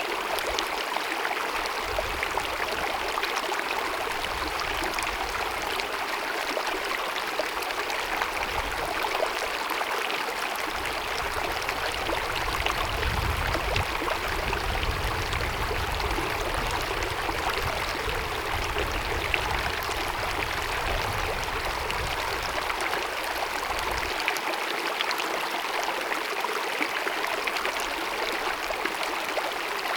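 Small mountain meadow stream babbling and splashing over rocks in a steady rush, with a low rumble underneath that swells in the middle and drops away about 24 seconds in.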